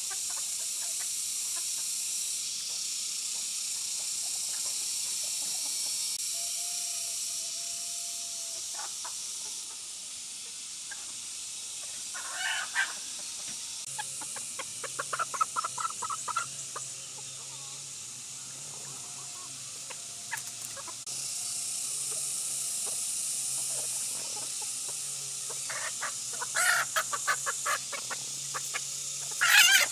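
Chickens clucking in short rapid series, a few calls about twelve seconds in, a run of clucks a little later, and a busier burst of clucking near the end, over a steady high hiss.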